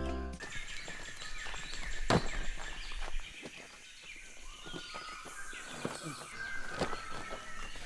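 Outdoor ambience with birds chirping in short calls and a few sharp knocks, the loudest about two seconds in.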